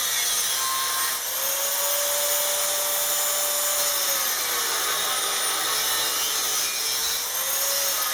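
Small angle grinder working on steel: a steady high grinding hiss over a motor whine that sags under load around the middle and then recovers.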